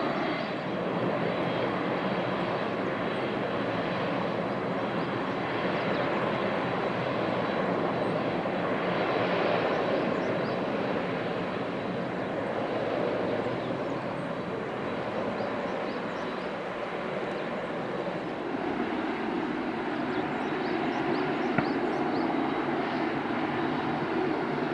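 Jet engines of a Boeing 767-300 airliner running: a steady, broad rush of jet noise, with a high engine whine that fades in the first second or two.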